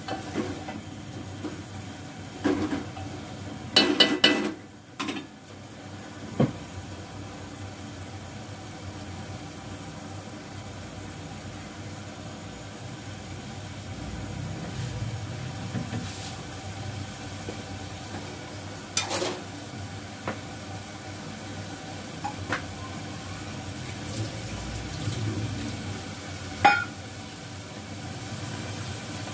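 Vegetables frying in oil and sauces in a metal pot, a low steady sizzle, with a spatula stirring and scraping against the pot and utensils clattering every few seconds. The loudest clanks come about four seconds in and near the end.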